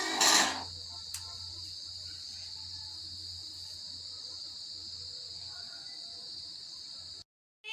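Steady high-pitched chirring of crickets over a low hum. A short harsh rasp, the loudest sound, comes in the first half second, then a faint click about a second in. The sound cuts off abruptly just before the end.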